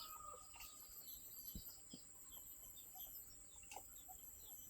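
Faint outdoor ambience of small birds chirping, short high calls repeating again and again, with a couple of soft knocks.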